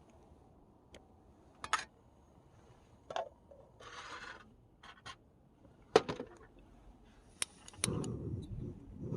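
Scattered clicks, taps and a short scrape of small objects being handled, the sharpest tap about six seconds in, followed near the end by a low, rough rustling noise.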